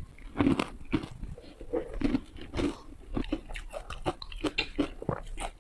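A person biting into and chewing hard ice close to the microphone: a fast, irregular run of sharp crunches.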